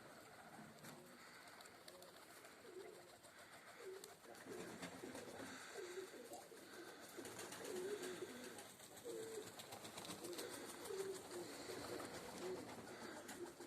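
Domestic pigeons cooing, faint, with the coos coming more often from about four seconds in.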